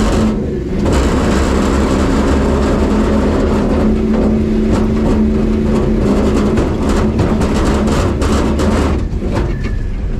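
Stub truck's engine running hard and loud at a fairly steady pitch, with a deep low rumble, easing off about nine seconds in.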